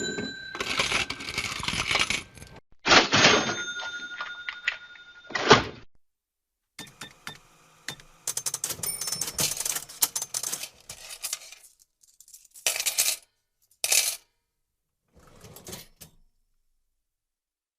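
A series of separate cash register sound effects: a register bell ringing out over the clatter of the drawer and jingling coins, each clip ending abruptly before the next begins.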